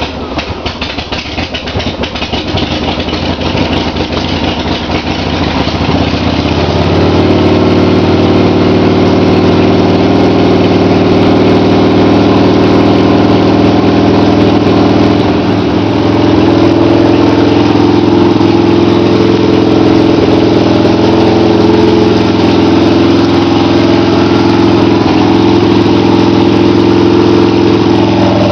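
1994 Harley-Davidson Sportster 1200's air-cooled V-twin running on choke just after a cold start. It is uneven for the first six seconds or so, then settles into a steady, louder idle.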